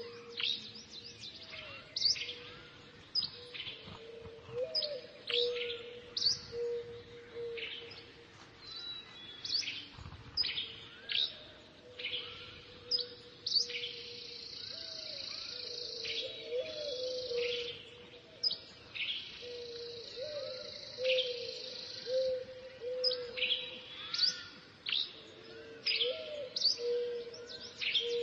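Small birds chirping: quick, sharp chirps several times a second, over a steady low hum.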